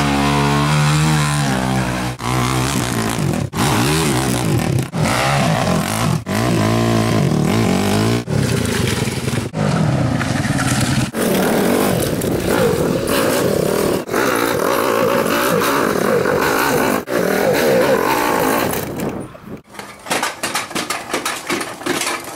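Dirt bike engine running and revving, its pitch rising and falling, broken by short sudden gaps every second or two. About twenty seconds in it gives way to quieter scattered clicks and knocks.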